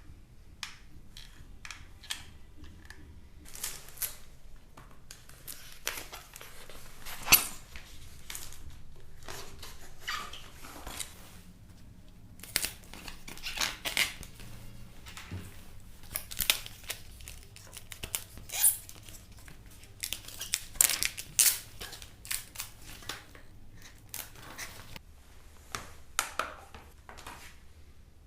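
Scissors snipping and crinkly building materials being handled: an irregular run of short cuts and rustles with a few sharper clicks, the loudest about seven seconds in.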